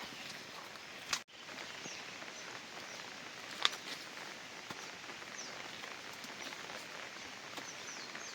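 Steady rain falling, with a sharp knock about a second in and a louder one about three and a half seconds in.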